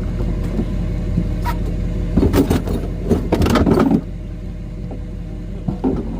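A pickup truck's engine idles steadily under a burst of metal clanking and rattling, from heavy hitch parts being handled in the truck bed, about two to four seconds in. A few single knocks come either side of it.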